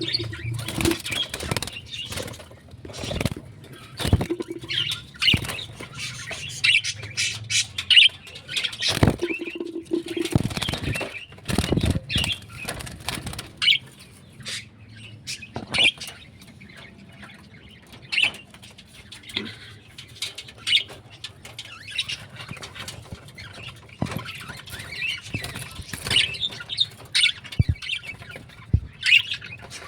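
Pet birds chirping and squawking in short, scattered calls, amid many sharp clicks and knocks.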